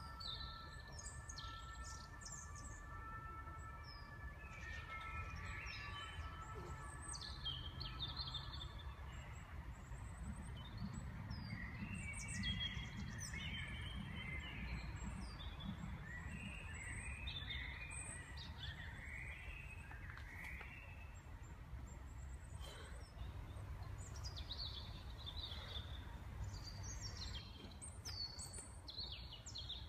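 Several small birds singing and chirping, with short whistled notes and trills coming again and again, over a low, steady background rumble.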